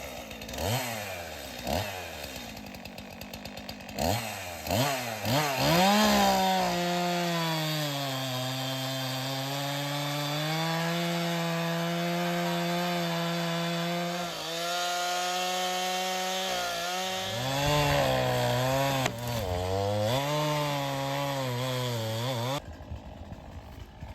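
Chainsaw revved in several short blips, then held at high throttle cutting into an oak log, its pitch sagging and recovering under load, until it cuts off abruptly near the end.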